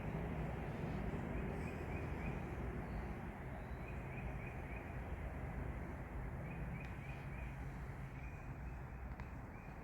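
A bird calling in short runs of quick repeated chirps, several times, over steady outdoor background noise.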